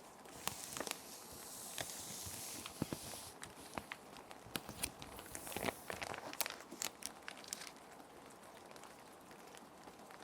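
Plastic sheet protectors crinkling and crackling as sheets are slid into them, with two longer sliding swishes, over a soft steady rain in the background.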